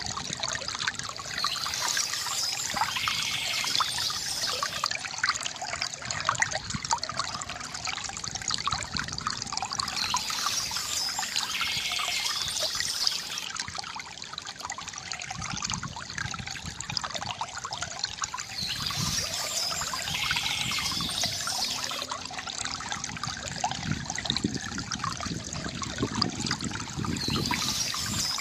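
River water trickling and gurgling steadily, with a brighter high-pitched hiss that comes and goes roughly every eight or nine seconds.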